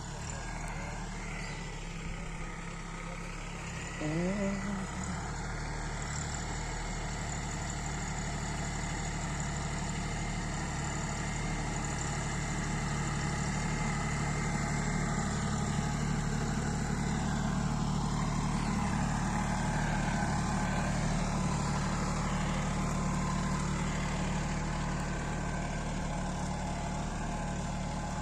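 Farmtrac Atom 26 hp mini tractor's diesel engine running steadily while working a ridger, its sound swelling a little through the middle. A brief rising sound about four seconds in.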